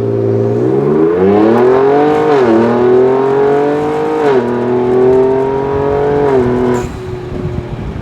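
Ford Raptor 3.0 petrol's twin-turbo V6 accelerating through a Veleno titanium catback exhaust. The engine note climbs in pitch and drops twice as the gearbox shifts up, then holds steady and falls away near the end as the driver lifts off.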